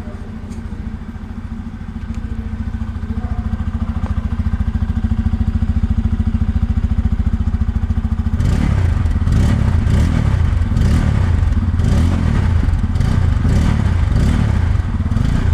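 Bajaj Pulsar F250's 249 cc single-cylinder engine idling steadily through its twin-outlet exhaust, then revved in repeated quick throttle blips, rising and falling, from a little past halfway.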